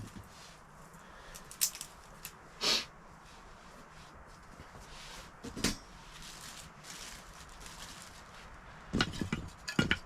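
Camp gear being handled: a few separate knocks and clinks, then a quick cluster of clicks near the end.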